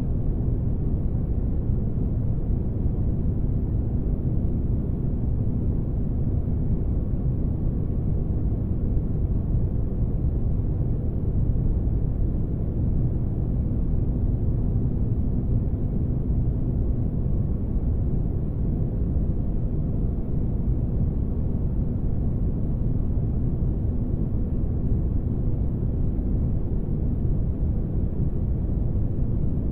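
Spaceship engine ambience for sleep: a steady low rumble with a faint hum, unchanging throughout.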